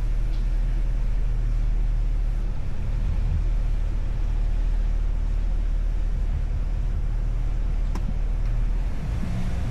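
Chevrolet Tahoe SUV running at low, steady speed while creeping through a tight turn, a steady low rumble, with one sharp click about eight seconds in.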